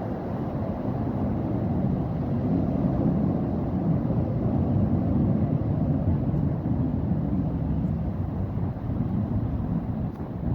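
Distant military jet engines, a low rumble that swells to a peak a few seconds in and then eases off as the jets pass.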